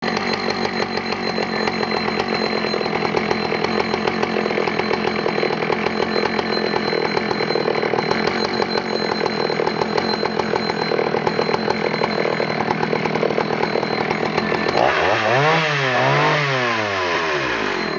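1974 Husqvarna L 65 65 cc two-stroke chainsaw running steadily with a fast pulsing beat, then revved up and let back down twice near the end.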